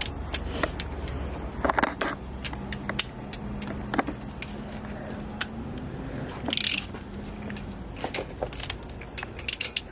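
Scattered metal clicks and ticks as a car wheel's lug nuts are tightened with a wrench, over a low steady hum in the middle, with a brief hiss about six and a half seconds in.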